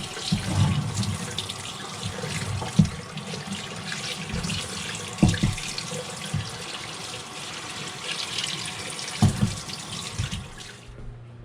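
Running water rinsing degreaser off a HMMWV 6.2 diesel fuel injection pump after its soak. The steady splashing stops shortly before the end, with a few sharp knocks along the way.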